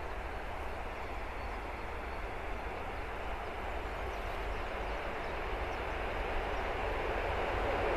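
Diesel locomotive hauling a passenger train on approach, a steady rumble that grows gradually louder as it nears.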